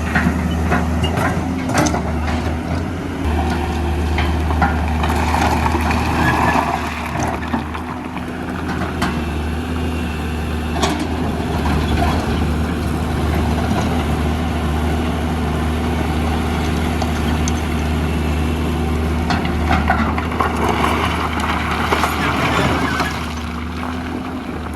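Diesel engines of a Hitachi EX200 excavator and Isuzu Elf dump trucks running steadily, with scattered knocks and two louder spells of heavier running.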